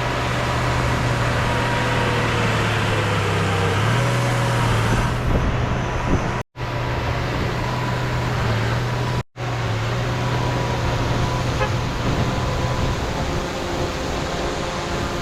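Heavy diesel earthmoving machinery running steadily at work, its engine hum shifting slightly in pitch about four seconds in. The sound cuts out completely for an instant twice, around the middle.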